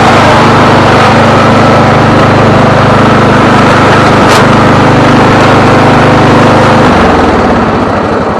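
Old lawn tractor's Briggs & Stratton 12.5 engine running loudly and steadily, then shut off about seven seconds in and winding down.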